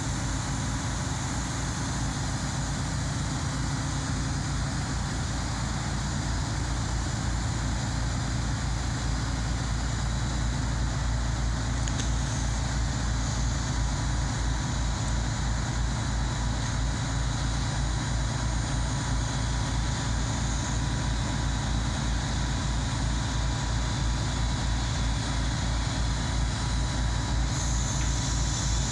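A train at the station: a steady low rumble with a few faint steady whining tones above it, slowly growing louder.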